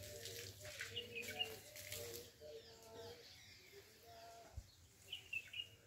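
Faint birds calling outdoors: a few high chirps about a second in and again near the end, with lower held notes in between. A soft knock about four and a half seconds in.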